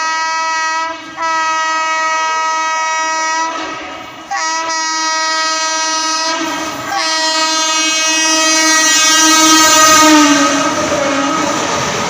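Indian Railways express train sounding its locomotive horn in long blasts with short breaks between them, as the train approaches at speed. Near the end the rush and clatter of the passing train swell to their loudest and the horn drops slightly in pitch as it goes by.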